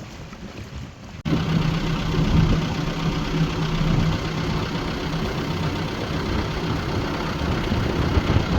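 A boat engine running steadily under way. It comes in abruptly about a second in, after quieter wind noise.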